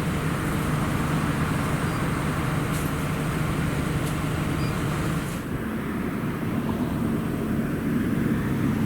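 Steady low hum of an idling vehicle engine. About five and a half seconds in the sound changes to a duller hum with a slightly higher low tone.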